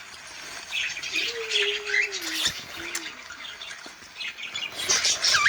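Cockatiels chirping and squawking in quick, short calls, with a louder burst of gliding calls near the end.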